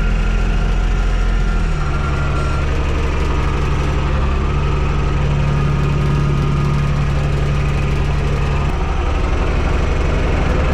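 TYM T224 subcompact tractor's diesel engine running steadily, its note changing about two seconds in and again near nine seconds.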